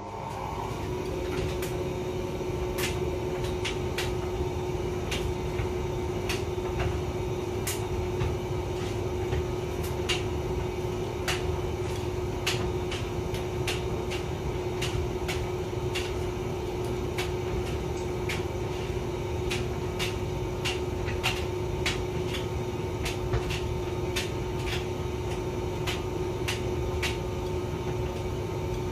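Hotpoint vented tumble dryer starting up and, within about a second, running steadily: a steady motor hum under a rumbling drum, with irregular light clicks and knocks from the load tumbling inside.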